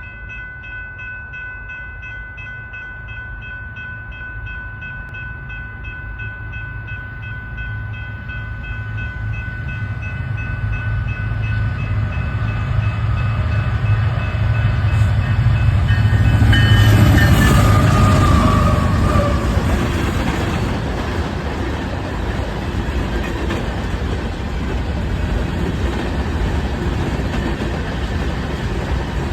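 Union Pacific train approaching with its horn held in a steady multi-note chord, growing louder until the locomotive passes about 17 seconds in, when the horn drops in pitch. After that the rumble and clatter of the passing cars on the rails carry on.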